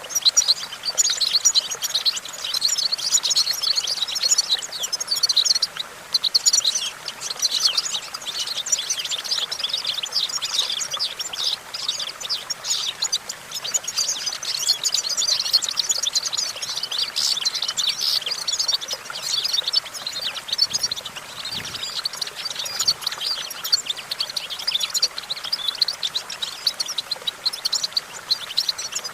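European goldfinch singing a long, continuous song of rapid twittering and chattering notes.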